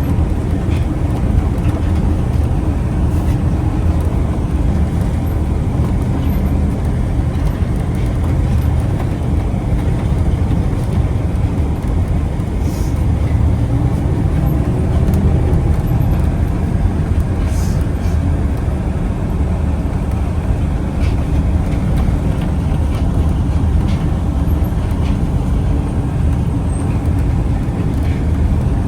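Moving vehicle running steadily, a continuous low rumble with a few faint clicks and rattles.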